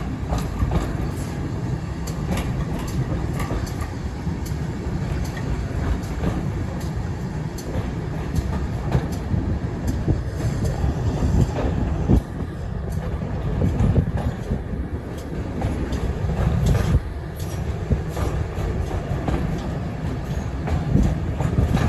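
Railway train running along the track, heard from on board: a steady low rumble with irregular clicks and knocks from the wheels over the rail joints.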